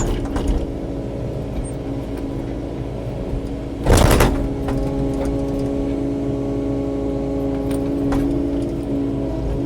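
Kubota KX080-4 excavator's diesel engine running steadily while working, with one loud short impact about four seconds in and a few lighter clicks.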